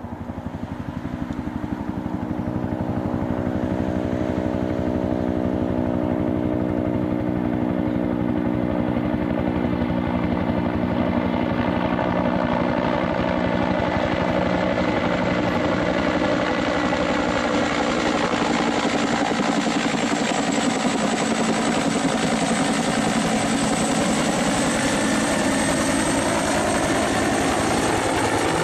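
A motor or engine running steadily, its pitch drifting slowly down and back up, with a faint high whine coming in partway through.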